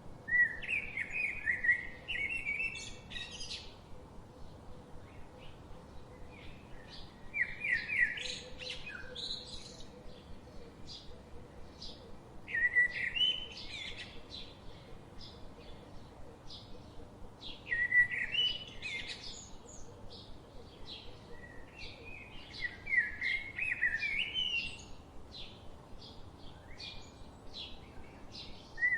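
A songbird singing: a loud phrase of rapid, climbing notes lasting two to three seconds, repeated about every five seconds. Faint short chirps fill the gaps between phrases.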